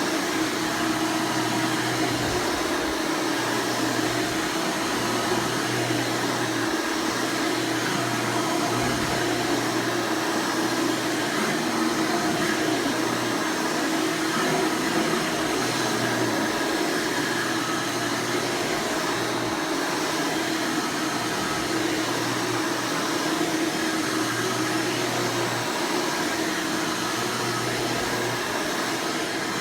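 Hoover Elite Supreme upright vacuum (U5071-930, 7.2-amp motor fitted with a replacement 20-blade fan) running steadily at full power, a smooth, pretty loud, even motor and airflow noise.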